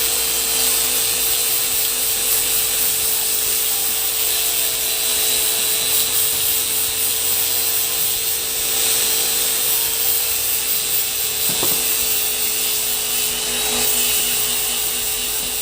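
Steady mechanical hum and hiss with hand-tool work on an outboard motor, with a single click about two thirds of the way through.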